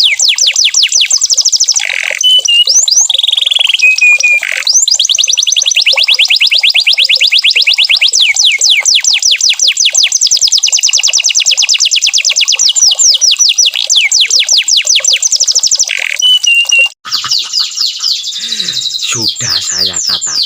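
Domestic canary singing a long rapid trill of quick descending whistles, broken by a few short held notes. A brief break near the end is followed by a different trill.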